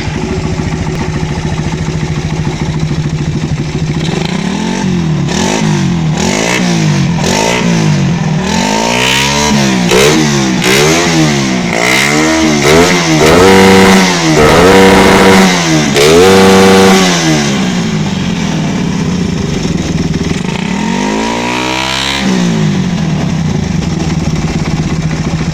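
Suzuki Satria FU motorcycle engine running through an Alka standard-look racing exhaust: idling steadily, then revved in a quick string of throttle blips, several held high and loud near the middle, before dropping back to idle and one more rev near the end.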